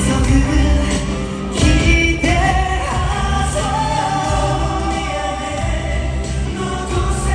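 Live pop music with several voices singing together over a band backing with strong bass, heard through a concert venue's sound system.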